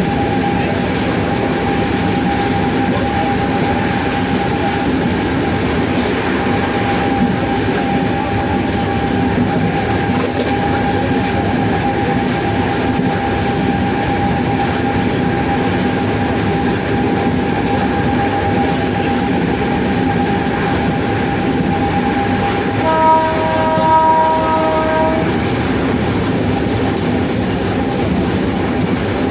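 WAP-7 electric locomotive's traction motors running with a steady high whine over the rumble of the moving train. The whine fades about 22 seconds in, and a train horn sounds for about two seconds shortly after.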